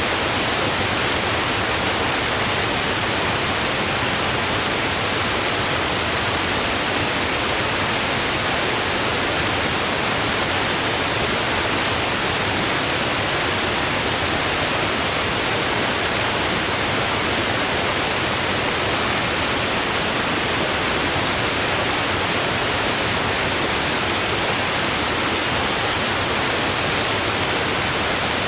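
Steady, even rushing hiss, unchanging in level throughout, with no swells or separate sounds in it.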